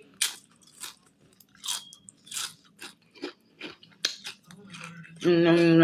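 A person chewing crunchy food close to the microphone: a string of irregular crunchy chews. Near the end a hummed voice comes in.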